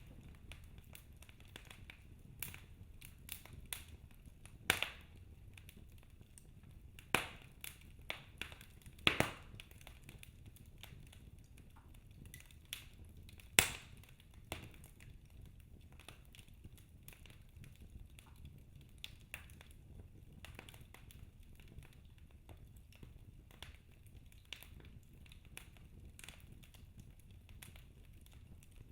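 Wood fire crackling in a fireplace: irregular sharp pops and snaps over a low steady rumble, with a few louder pops in the first half.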